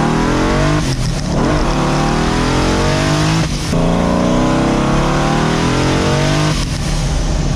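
Turbocharged LS V8 accelerating through the gears, heard from inside the car. The engine note climbs in pitch, breaks for a gear change about a second in and again about three and a half seconds in, climbing each time, then eases off near the end.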